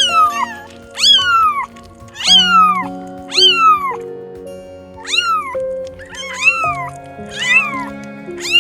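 A cat meowing again and again, about once a second: seven high-pitched meows, each rising then falling in pitch. Background music with held notes runs underneath.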